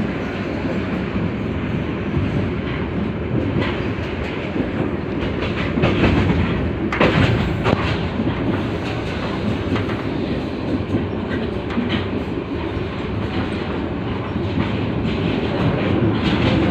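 Passenger train running along the track: a steady rumble of the moving carriage with scattered clacks and rattles from the wheels over the rails.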